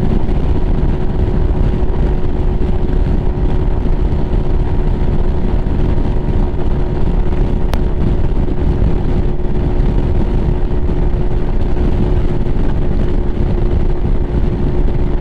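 Lifan KPM 200's single-cylinder engine running steadily at high revs while cruising at highway speed in sixth gear, under heavy wind rush on the microphone. One brief click about halfway through.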